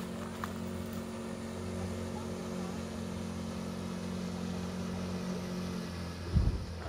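Boat motor running steadily at a low, even pitch, stopping about six seconds in, followed by a loud knock near the end.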